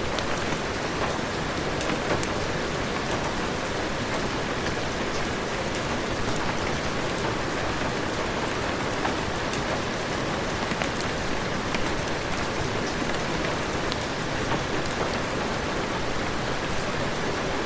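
Steady heavy rain, an even hiss with many fine, scattered ticks of drops.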